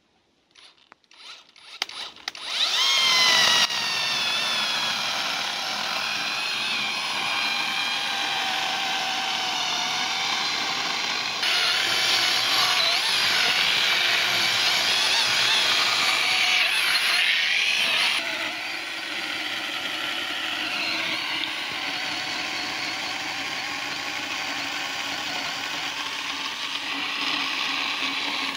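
Electric chainsaw with a 12-inch bar cutting a dry pine log. The motor starts up about two and a half seconds in and runs steadily, getting louder for several seconds in the middle as the chain bites deeper.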